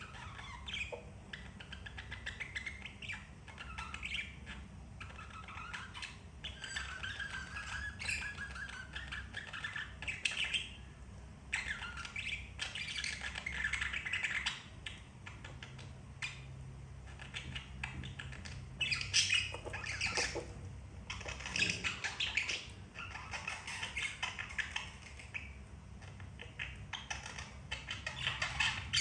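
Budgerigar chirping and chattering in bursts, with louder calls about two-thirds of the way through.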